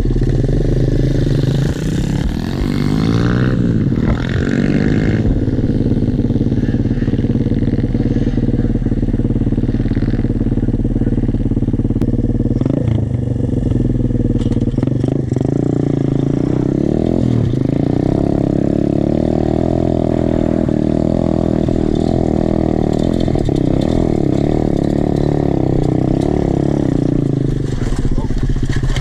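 Small single-cylinder pit bike engine running under load. The revs rise and fall through the gears in the first few seconds, climb again about halfway through, then hold high for a long stretch before dropping near the end.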